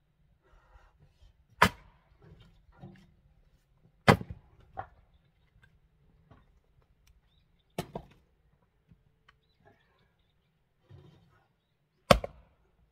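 An axe splitting oak firewood: four heavy blows a few seconds apart, the first and second followed by smaller knocks and clatter.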